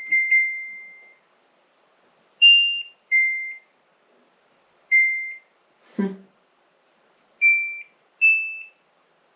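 Samsung EcoBubble WW70TA046AX/LE washing machine's control panel beeping as its buttons and programme dial are operated: a string of about six short, fading electronic beeps at a few different pitches, spaced unevenly. A brief low sound comes about six seconds in.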